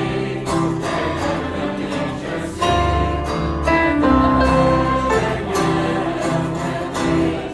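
A mixed group of voices singing a Christian hymn together in held notes, with strummed guitar accompaniment.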